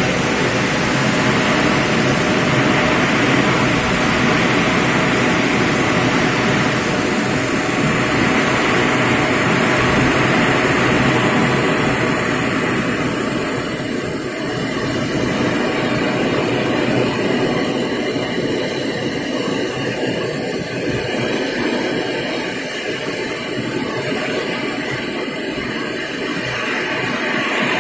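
Heavy rain pouring down in strong gusting wind, a loud dense rushing noise. The hiss eases somewhat about halfway through as the downpour lets up a little.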